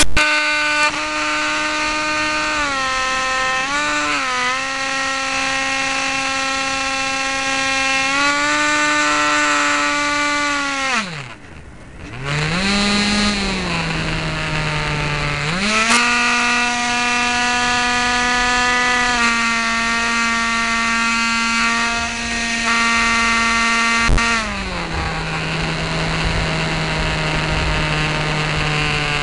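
Electric motor and propeller of a Dynam Hawk Sky RC plane, heard onboard: a steady buzzing whine whose pitch steps up and down as the throttle changes, with rushing air noise underneath. About eleven seconds in the whine falls steeply and almost stops, then spins back up at a lower pitch.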